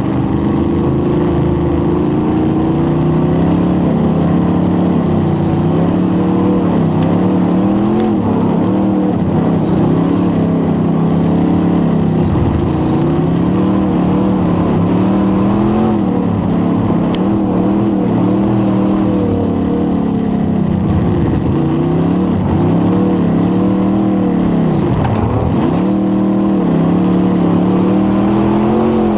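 Late model race car's engine running hard at racing speed, its pitch rising and falling over and over as it accelerates and lifts off.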